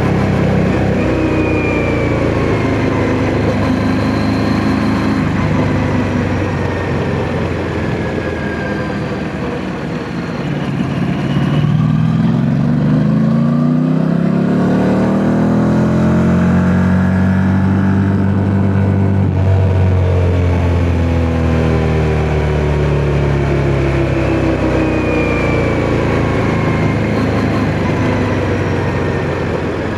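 Yamaha MT-07's parallel-twin engine on the move, heard from the rider's position. It eases off about ten seconds in, then revs up with the pitch climbing, and settles back down after the middle.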